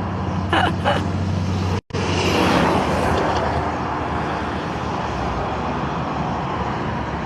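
Steady road traffic noise with a low engine hum underneath. It cuts out for an instant about two seconds in.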